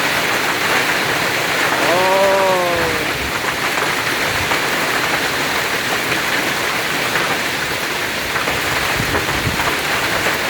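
Heavy rain mixed with hail pouring down in a dense, steady hiss. About two seconds in, a short voice-like sound rises and falls in pitch over it.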